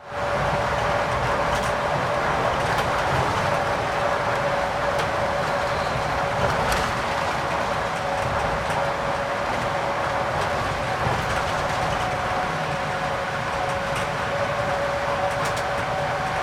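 Scania K410 IB coach under way: steady engine and road noise with a faint steady whine, cutting in suddenly.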